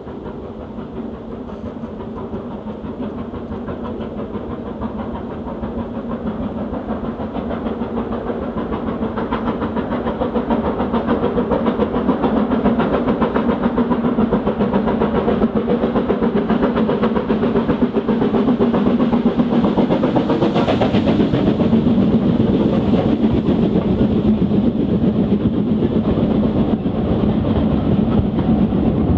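Steam-hauled train approaching, growing steadily louder over about the first ten seconds, then running close by loud and steady, with the clatter of its wheels over the rails.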